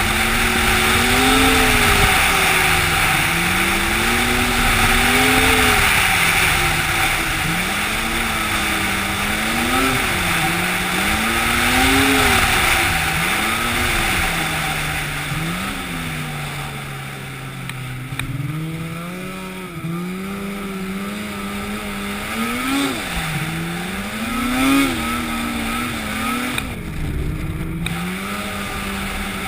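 An engine running under changing load, its pitch rising and falling again and again, with a steady hiss over it in the first half.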